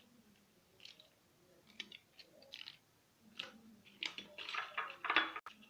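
Scattered light clicks, taps and rustles of kitchen items being handled, sparse at first and busier in the second half; no blender motor is running.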